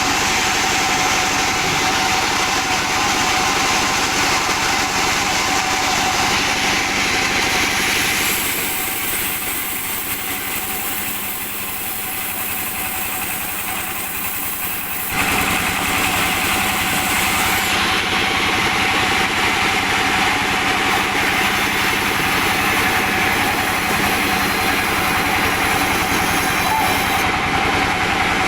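Sawmill machinery running steadily, sawing albasia logs into boards. About eight seconds in the sound eases and thins, then it comes back suddenly at full strength some seven seconds later.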